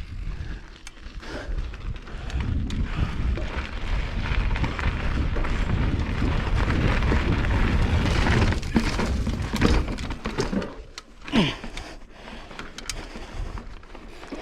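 Mountain bike rolling over a rough trail: tyre and frame noise with a steady rumble and many sharp knocks and rattles as it jolts over bumps, loudest in the middle, with a brief falling squeal about eleven seconds in.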